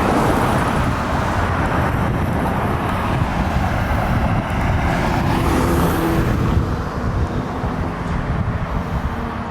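Fire truck driving on the road: steady engine and road noise that eases off a little about six and a half seconds in.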